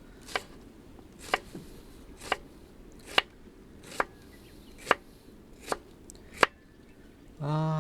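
Kitchen knife chopping vegetables on a cutting board: eight single, evenly paced strokes, a little under one a second.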